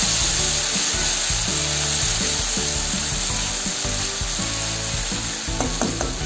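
Ground spice paste sizzling in hot oil in a frying pan as a spatula stirs it, over background music. A few light spatula taps on the pan near the end.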